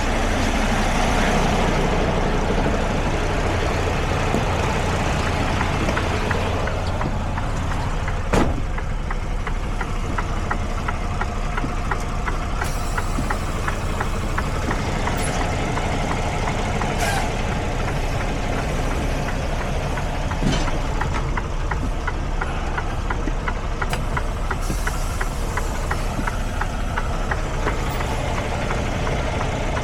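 Semi-truck diesel engine running slowly at near idle, with a few sharp knocks or clicks over the steady drone.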